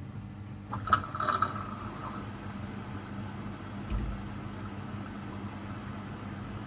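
Hoover DXOA610AHFN-80 washing machine mid-wash: a steady low hum, then about a second in a sudden rush of water as it fills, fading after a second or so, and one low thud about four seconds in.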